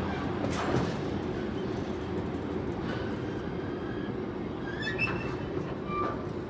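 Locomotive-hauled train on the move: a steady low rumble with a knock about half a second in and brief high squeals in the second half.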